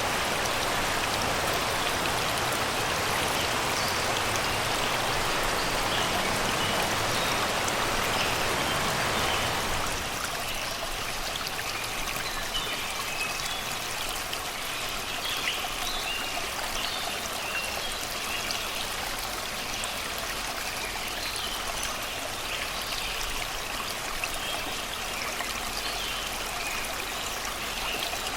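Shallow river water rushing and burbling over rocks and stones. About ten seconds in the water becomes a little quieter, and short bird chirps and song phrases are heard over it.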